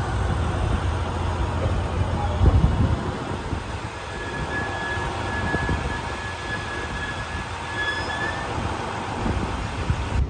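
JR West 223 series electric train pulling out of the station, its wheels rumbling with a few clacks over rail joints, then a thin, steady wheel squeal from about four seconds in that fades out near eight seconds.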